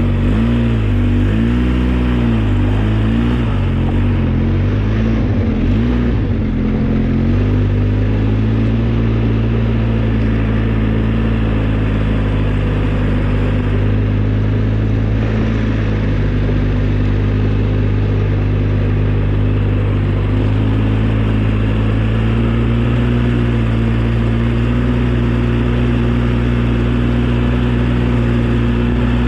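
Engine of an old snowplow vehicle running under way. Its pitch rises and falls several times in the first seven seconds, then settles into a steady, even drone.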